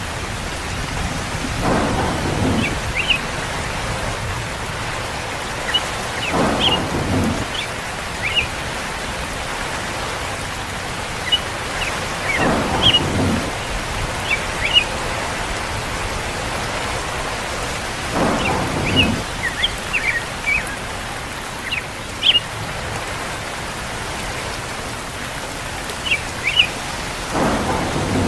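Steady rain. Five short low rumbles come about every five to six seconds, and brief high chirps are scattered throughout.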